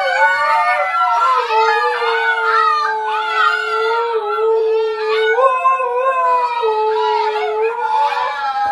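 Dogs howling together: several long, wavering howls overlapping at different pitches, held without a break.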